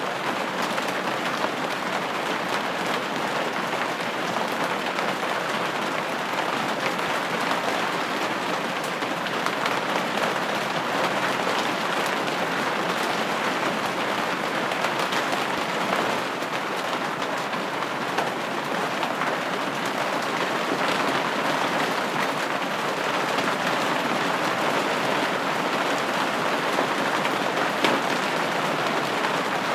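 Steady rain pattering on a window pane, an even hiss of drops with many small ticks.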